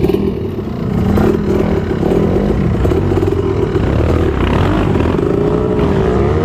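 Trail motorcycle engine revving, its pitch rising and falling repeatedly as it works through the rough ground.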